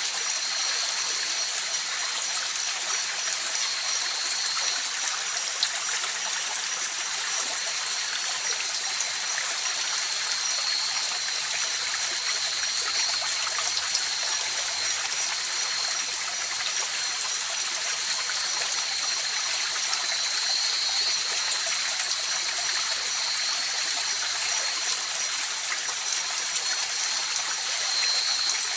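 River water flowing steadily over rocks, an even rushing and trickling, with steady high-pitched tones held above it.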